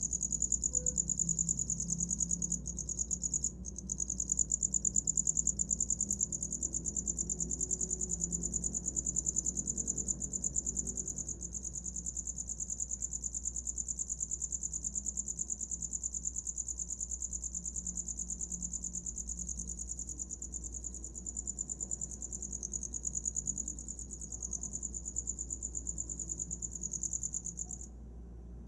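A cricket chirping in a continuous rapid trill, high-pitched, which breaks off for a moment about three seconds in and again near the end.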